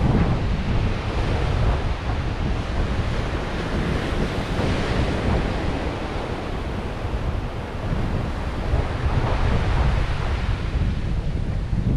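Surf washing onto a beach, with wind buffeting the microphone in a heavy low rumble; the rush swells and eases without a break.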